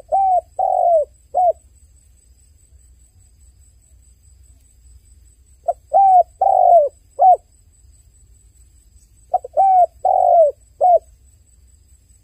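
Dove cooing: three phrases of four or five short coos each, the phrases a few seconds apart, each coo dropping slightly in pitch at its end.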